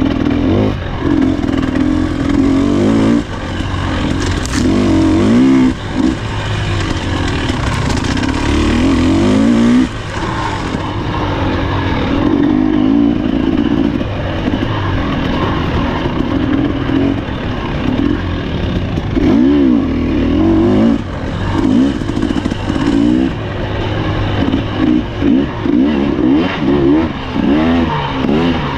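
Husqvarna TE300 two-stroke enduro motorcycle engine being ridden hard, revving up and down with the throttle. The pitch repeatedly climbs, then drops away when the throttle is shut, with quicker short blips near the end.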